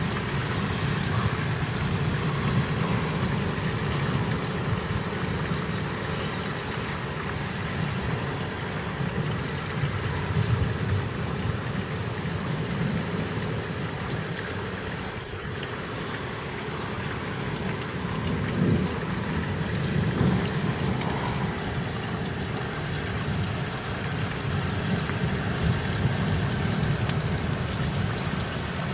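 Steady heavy rain falling, with water running and pouring.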